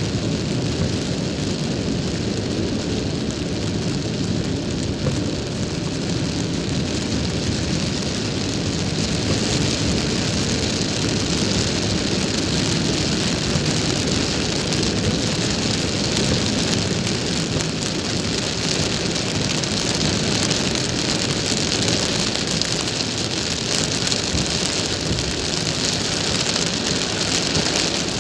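Steady rain on a moving car: an even hiss of rain over the low rumble of the car driving.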